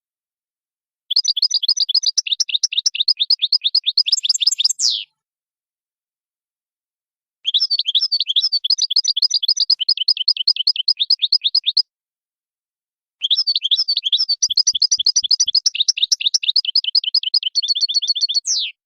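European goldfinch singing in the Oudani song style: three long phrases of rapid repeated high notes, about ten a second, separated by silent gaps. The first and last phrases end in a quick falling sweep.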